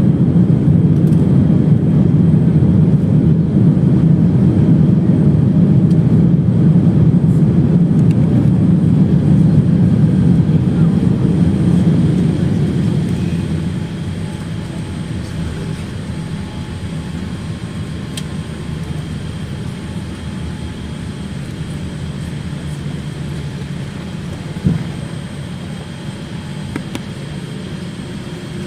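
Boeing 787-9 cabin noise as the airliner slows after landing. A loud, low rumble eases off about halfway through into a steadier, quieter running, with one short knock near the end.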